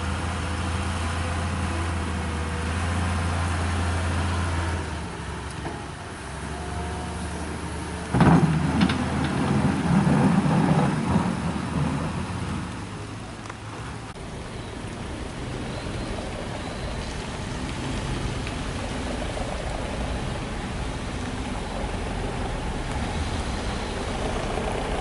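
Heavy engine running steadily with a low hum. About eight seconds in a louder, rougher rumble rises for around four seconds, then it settles back to a quieter steady drone.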